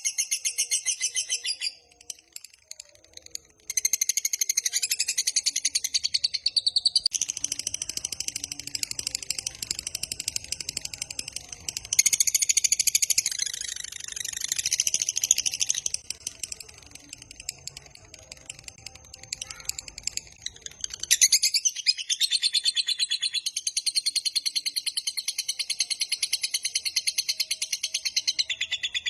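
Lovebird ngekek: a long, very rapid chattering trill of quickly repeated high notes. It breaks off briefly about two seconds in, softens for a few seconds past the middle, then comes back loud.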